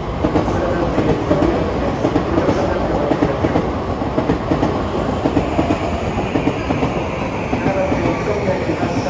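Electric train running along a station platform at close range, its wheels clacking over rail joints in a quick, uneven series of knocks.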